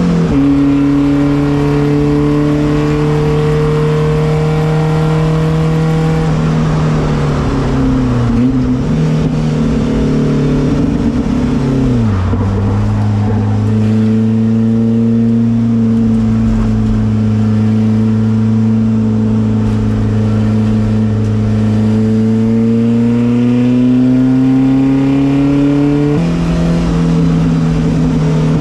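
Volvo 240 race car's engine running at speed with a steady note that drops about 12 seconds in, climbs slowly, then jumps up sharply about 26 seconds in, like a gear change.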